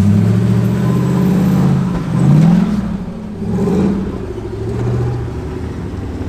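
Jeep engine revving under throttle. It surges and rises in pitch about two seconds in, falls back, and surges more gently twice after that.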